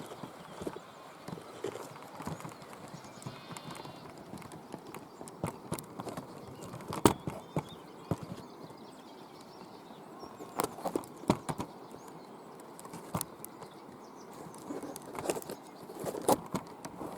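Irregular sharp knocks and clicks at an uneven pace, loudest about seven seconds in and again around eleven seconds, over a faint steady outdoor hiss.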